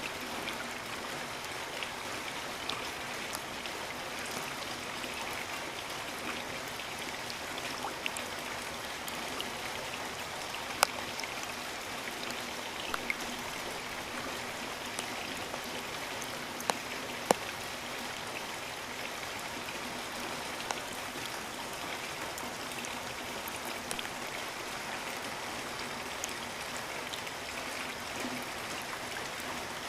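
Steady rain falling, a dense even hiss with scattered louder drops striking close by; a few sharp drop hits stand out, the loudest about eleven and seventeen seconds in.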